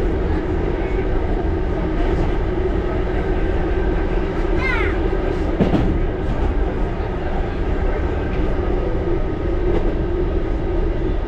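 1938 Tube Stock electric train running with a steady rumble and hum. A short high squeal comes about four and a half seconds in, and a single clank follows about a second later.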